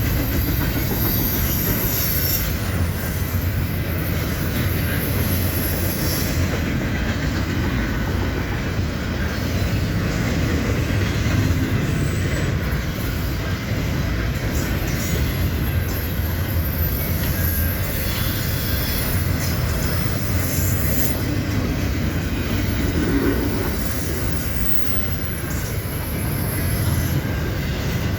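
CN double-stack container train cars rolling past: a steady low rumble of wheels on rail, with wheel squeal coming and going high up.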